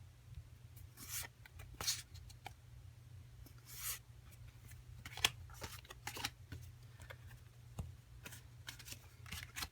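Japanese Pokemon trading cards being handled and slid against one another, a series of short rustling swishes with a sharper one about halfway through, over a low steady hum.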